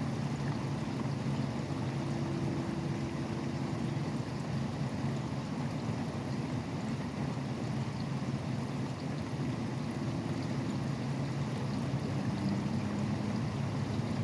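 Steady rain falling, with highway traffic running underneath. Low engine and tyre hum from passing vehicles swells and fades a few times.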